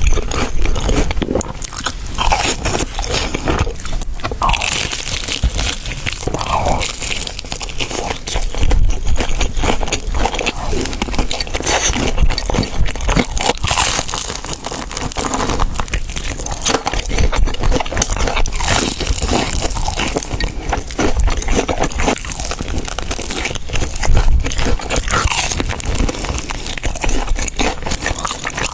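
Crunchy food being bitten and chewed, a dense run of irregular crackling crunches.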